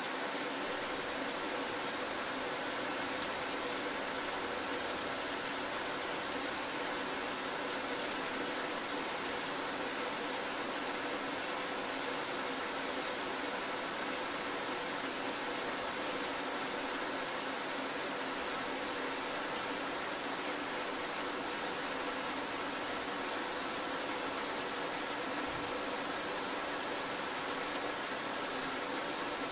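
Steady rain falling, an even hiss, with a faint steady hum beneath it.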